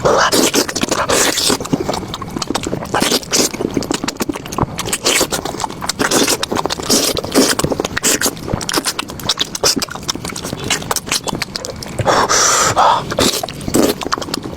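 Close-miked eating: chewing and crunching of food, with dense, irregular crackling clicks and moist mouth noises throughout.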